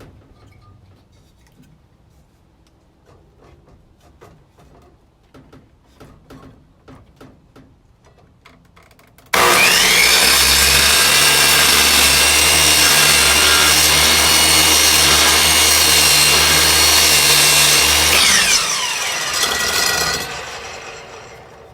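Light tapping and handling sounds, then about nine seconds in an electric miter saw starts suddenly and runs at full speed with a steady whine as the blade cuts into wood. Near the end the trigger is released and the motor winds down, its whine falling.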